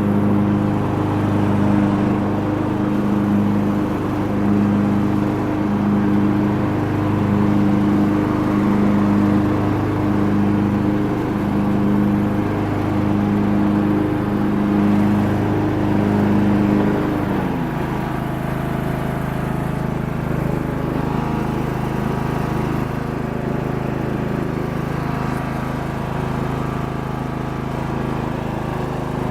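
AYP Wizard Pro lawn tractor engine running steadily with a regular pulsing beat. About two thirds of the way through its note drops and it runs on lower and a little quieter.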